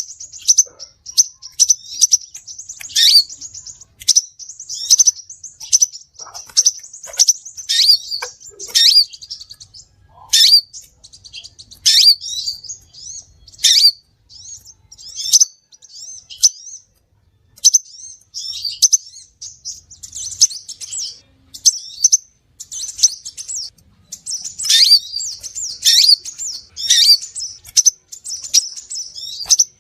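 Crimson sunbird (sepah raja) lure-call recording: a dense run of high, rapid chirps and twittering trills, broken by sharp downward-sweeping notes, with one short break a little past halfway.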